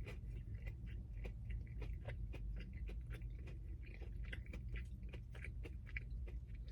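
Close-up chewing of a mozzarella stick with marinara: soft, wet mouth clicks several times a second over a steady low hum.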